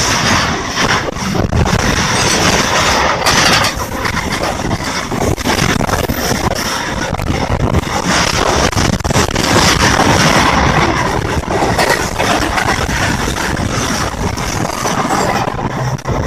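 Steady rumble and rush of a moving passenger train heard at its open window while a long rake of covered goods wagons passes close on the next track: continuous wheel-on-rail noise with no horn or voices.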